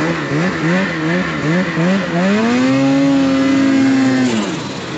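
Snowmobile two-stroke engine under throttle, its pitch rising and falling about twice a second, then climbing and held steady at higher revs for about two seconds before dropping back near the end.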